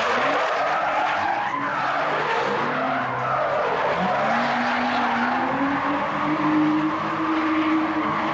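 Drift car sliding with its tyres screeching and its engine held at high revs; the engine note climbs about halfway through and then holds steady.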